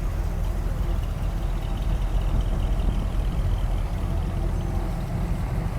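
Low, steady engine rumble of classic cars rolling past at low speed in a line.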